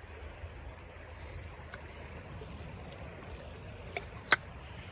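Creek water running steadily, with a few faint ticks and one sharp click near the end.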